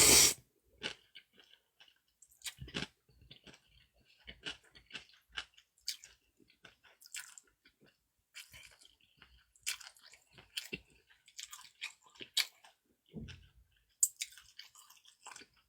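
Close-up eating sounds: a person chewing and biting food, with irregular small wet clicks and crunches from the mouth.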